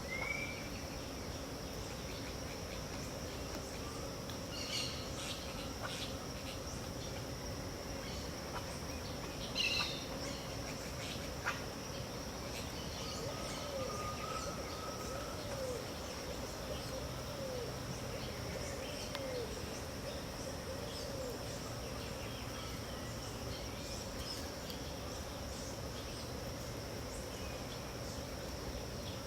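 Pantanal dawn soundscape: a steady high-pitched insect drone under scattered bird calls. A run of short falling notes comes in the middle, and louder sharp calls come at about 5 and 10 seconds in.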